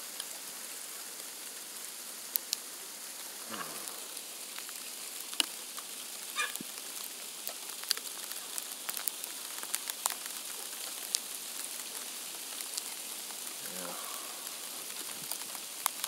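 Freezing rain in an ice storm falling steadily: a constant hiss with many sharp ticks of drops and ice striking hard surfaces.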